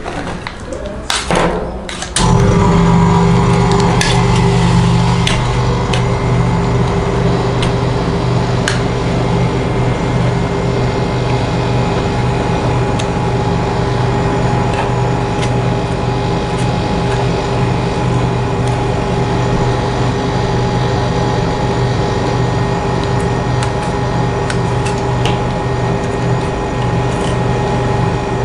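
A motor or machine starts about two seconds in and runs on with a steady, even hum, with scattered sharp taps and clicks of metal work over it.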